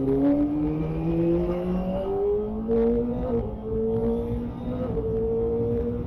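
Kawasaki ZX-25R's 250 cc inline-four through a Yoshimura Alpha exhaust, revving up under acceleration with upshifts about a third of a second in and about three and a half seconds in, then holding a steady pitch while cruising.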